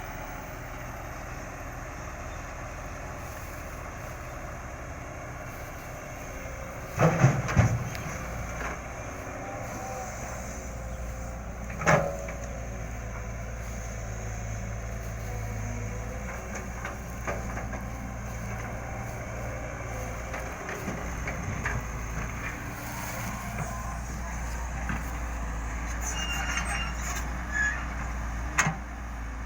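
Excavator's diesel engine running steadily, with a few loud knocks: a quick cluster about seven seconds in, one at about twelve seconds and two more near the end.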